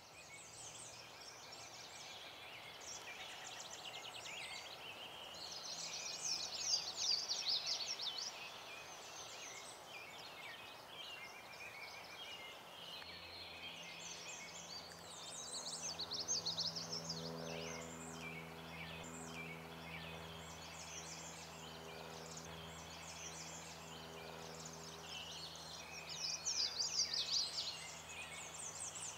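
Outdoor bird calls in rattling, chirping bursts, with three louder spells spread through the stretch. A steady low hum comes in about halfway through and continues under the calls.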